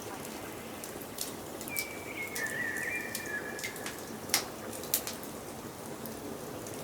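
Wood fire crackling with scattered sharp snaps and two louder pops about four and five seconds in. A high, steady whistle at two close pitches is held for nearly two seconds near the start.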